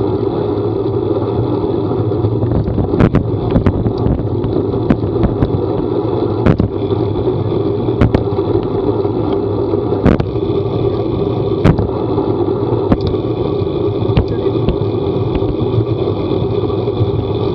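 Steady running and road noise of a moving vehicle, with a low hum. Irregular sharp knocks or taps sound over it every second or so.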